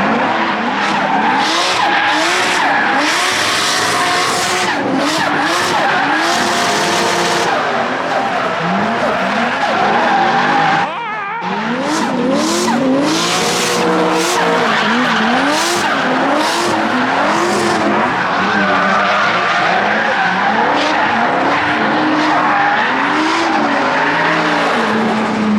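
Drift cars' engines revving up and down over and over while their tyres screech as they slide, with a short lull about 11 seconds in.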